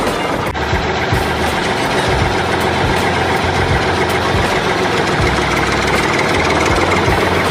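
Home-built mini tractor's engine running steadily, a continuous mechanical clatter with an uneven low rumble.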